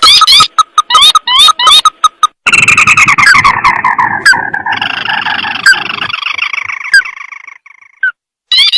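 Recorded crake (tikusan sawah) calls played as a bird lure. They open as a fast series of short, sharp rising notes. About two and a half seconds in, a loud stretch of overlapping, falling trills starts, with a rough noise under it. It fades away, and a few single notes come near the end.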